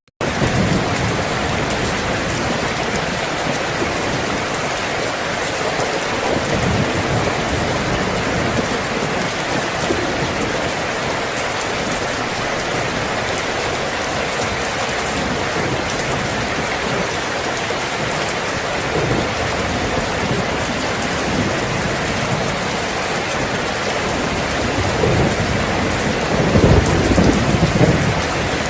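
Steady heavy rain, with low rolls of thunder, the loudest rumble coming near the end.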